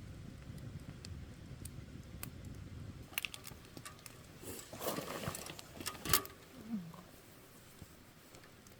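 Campfire wood crackling and popping, with a low rumble over the first few seconds. The crackles thicken in the middle and end in one loud, sharp pop about six seconds in.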